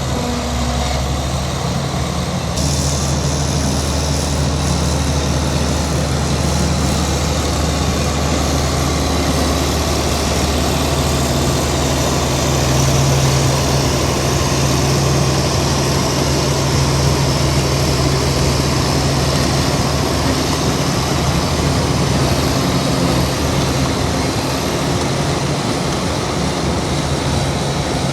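Heavy diesel engine of earthmoving machinery running steadily under load, a deep hum with broad mechanical noise.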